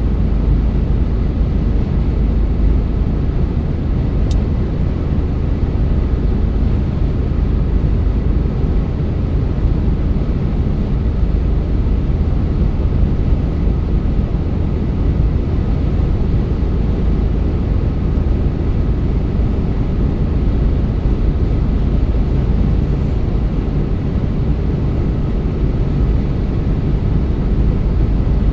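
Car driving along the road: a steady low rumble of engine and tyre noise, with one small click about four seconds in.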